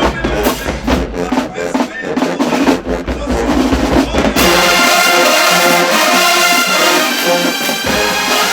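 HBCU marching band: the drumline and bass drums play a driving beat, then about four seconds in the full brass section comes in with loud sustained chords.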